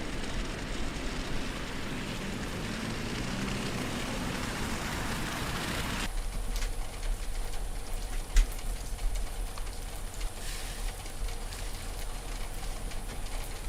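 Outdoor ambience with a vehicle engine running under a steady hiss. After a cut about six seconds in, it changes to a low rumble with scattered clicks and a single sharp thump.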